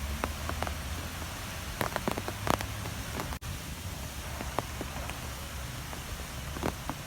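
Strong wind blowing, with a steady low rumble and hiss and scattered sharp ticks and taps. The sound cuts out for an instant about three and a half seconds in.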